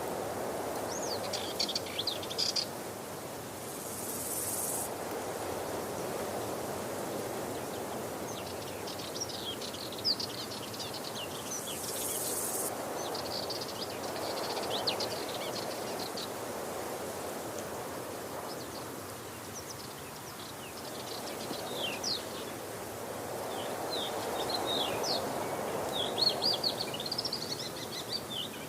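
Waterfall rushing steadily, gently swelling and easing, with small birds chirping in quick runs of high notes on and off, busiest near the end. Two brief high hisses sound a few seconds in and again about twelve seconds in.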